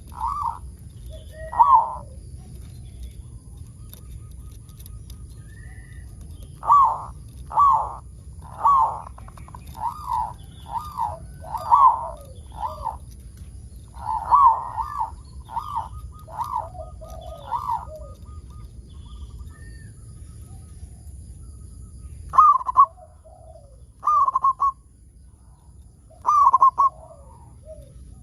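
Zebra dove (perkutut) cooing: short repeated coos in phrases of several notes, with pauses between phrases. A low background rumble runs under it and drops away near the end.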